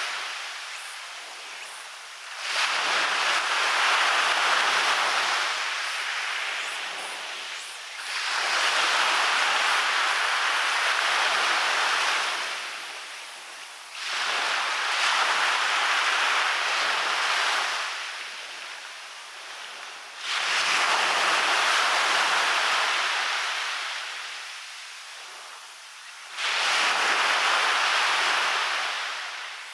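Waves breaking on a sandy beach, one about every six seconds, five in all. Each comes in suddenly as a loud rush of surf, then fades slowly as the water washes back.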